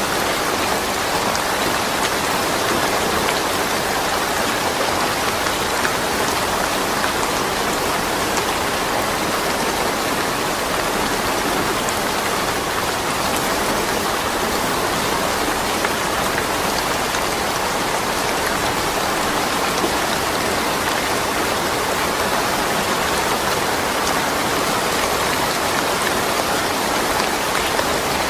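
Steady rain falling, an even hiss of many drops that holds level throughout, with no thunder.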